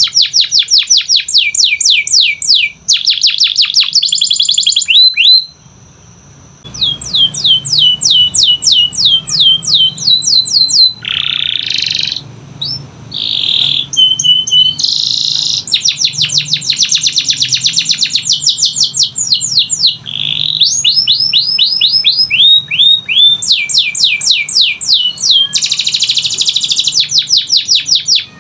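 Domestic canary singing: long runs of rapid, repeated falling whistled notes and trills, with a short pause about five and a half seconds in.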